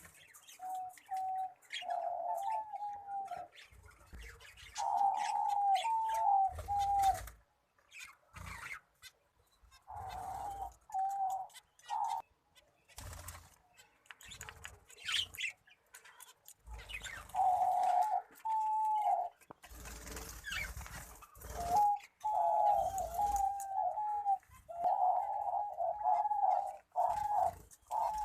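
Doves cooing in repeated short phrases with pauses between groups, over scattered clicks and low thumps.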